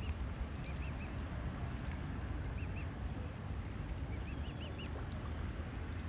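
A mute swan cygnet peeping: short high calls in quick groups of two or three, repeated every second or two over a steady low outdoor rumble and hiss.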